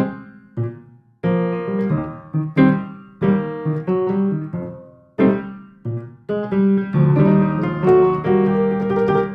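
Piano music: struck notes and chords that each ring and fade, thickening into held chords about two-thirds of the way through.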